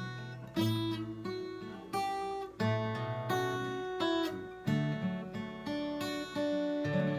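Acoustic guitar strummed in chords, a new chord struck about every second and left to ring, as the introduction to a song.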